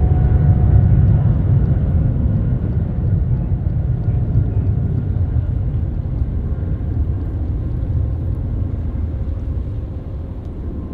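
Jet airliner engines making a deep rumble, slowly fading away.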